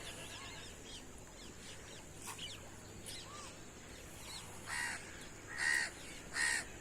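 Birds calling outdoors: small chirps throughout, then three louder, harsh calls near the end.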